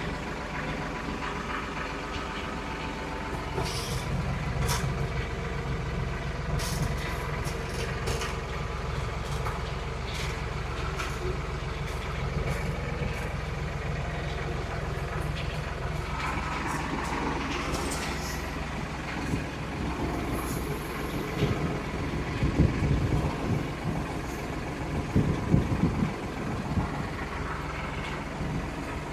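Diesel engine running steadily, with scattered metallic clicks and knocks and a few louder bumps about two-thirds of the way through.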